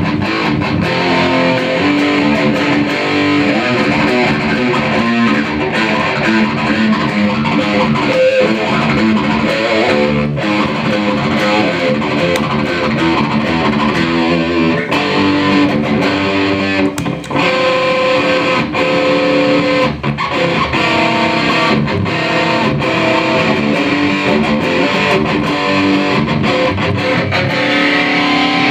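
Electric guitar played through a LittleBlues overdrive pedal into a heavily saturated Marshall amplifier. Distorted strummed chords and lines run continuously, with two brief breaks about 17 and 20 seconds in.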